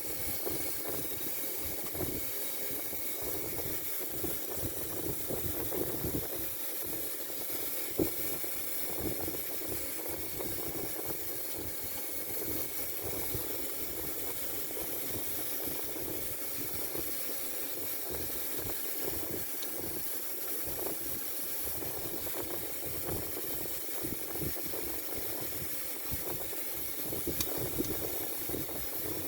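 Steady background hiss with faint, irregular light clicks and taps, typical of small metal engine parts being handled and set in place.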